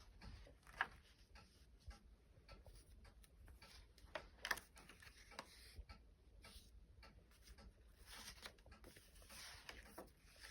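Faint rustling and soft clicks of paper book pages being handled and turned, with two sharper taps about a second in and again midway.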